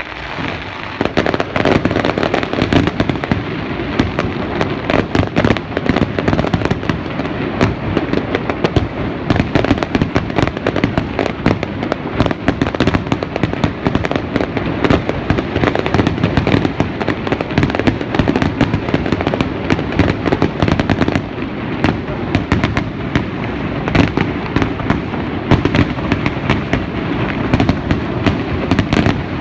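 Fireworks display: a dense, unbroken barrage of aerial shells bursting and crackling, starting about a second in.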